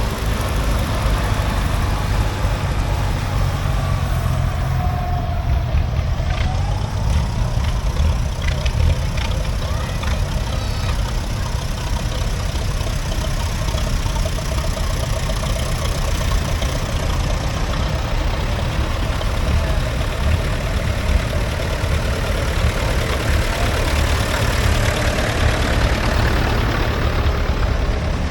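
Vintage farm tractor engines running, a steady low rumble with no break.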